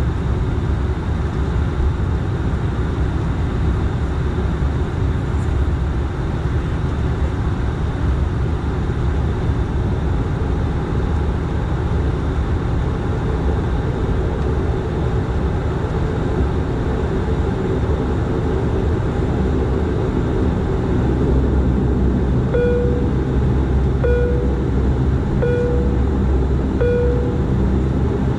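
Cabin noise of a Bombardier DHC8-400 with its two Pratt & Whitney PW150A turboprops running: a steady low drone with a propeller hum. Near the end come four short beeps about a second and a half apart.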